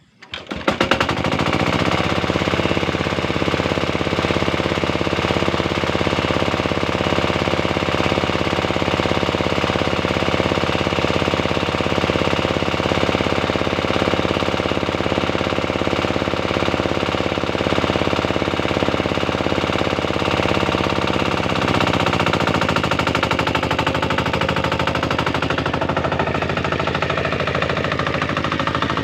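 Tractor engine running hard with a rapid, even chugging beat. It comes in suddenly at the start, and its note drops and changes about twenty-two seconds in, as the engine's speed or load changes.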